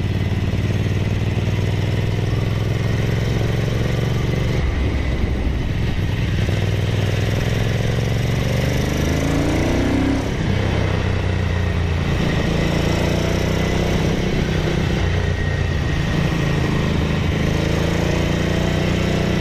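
Ducati 900SS bevel-drive 90-degree V-twin with Conti silencers, running under way, its revs rising and falling several times with a brief break in the note about ten seconds in. The freshly rebuilt engine pulls smoothly without stumbling.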